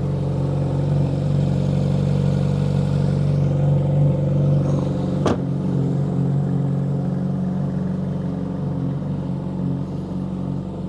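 Ferrari 458 Italia's 4.5-litre V8, breathing through an upgraded exhaust, running steadily at idle. A single sharp click comes about five seconds in.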